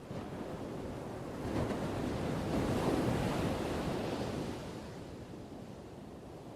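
Ocean surf washing ashore: one wave swells up about a second and a half in, peaks, then dies away into a softer wash.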